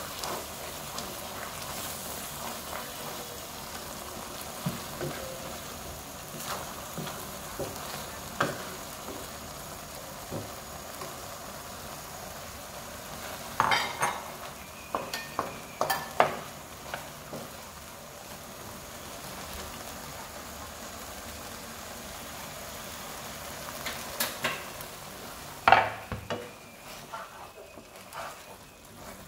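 Tomato, salmon and egg mixture sizzling in a wok while a wooden spatula stirs and scrapes through it. Clusters of sharper clacks of the spatula against the pan come about halfway through and again near the end.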